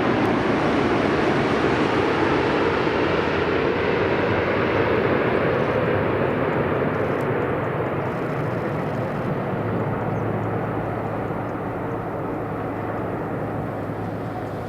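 Jet engine noise of a Malaysia Airlines Airbus A380 on landing, its Rolls-Royce Trent 900 engines giving a broad rushing sound that slowly fades and dulls as the aircraft moves away.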